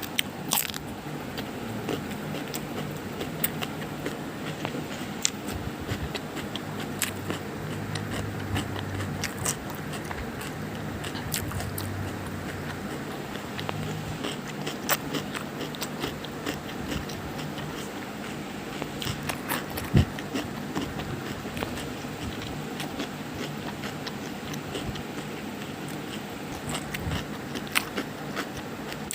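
Close-up ASMR crackling and crunching: many sharp, irregular clicks and crunches, like biting into something crisp, over a steady hiss and a low hum.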